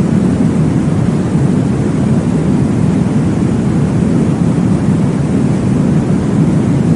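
Steady, deep whooshing noise from a womb-sound sleep track, made to mimic blood flow heard in the womb, even and unbroken throughout.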